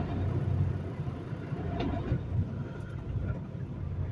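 Semi truck's diesel engine running at low speed with a steady low rumble, a brief faint higher sound just before two seconds in.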